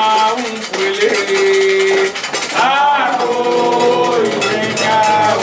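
Voices singing a Candomblé chant in long held notes, one sliding in pitch midway, over steady metallic percussion of clinking bells and rattles.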